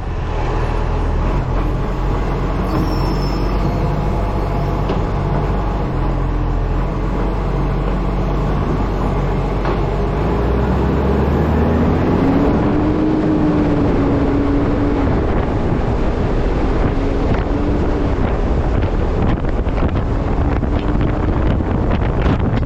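Wind rushing over a microphone mounted on the front of a moving truck, with the truck's engine and road noise running underneath. About halfway through a low hum rises and wavers in pitch.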